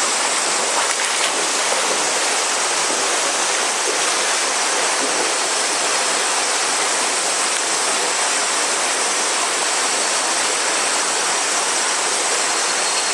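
River water rushing steadily, with a continuous chorus of cicadas calling over it.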